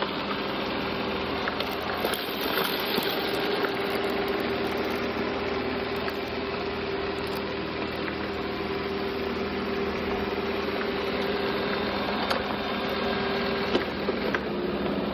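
Robot vacuum running: a steady motor hum and suction whine with a constant tone, a few faint clicks, and a slight change in pitch near the end.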